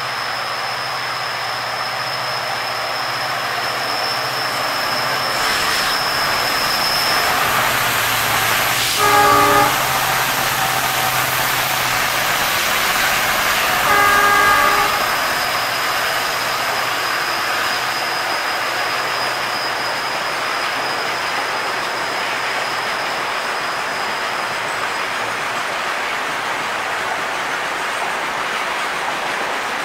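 A freight train hauled by a pair of Indian Railways diesel locomotives passes, its engines running and its covered wagons rolling by. The locomotive horn sounds two short blasts, about nine seconds in and again about five seconds later.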